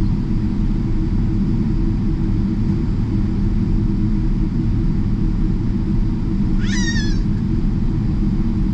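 Steady low rumble of a Boeing 777-300ER's cabin, the engines and airframe running. About two-thirds of the way in, one short high-pitched cry rises and then falls.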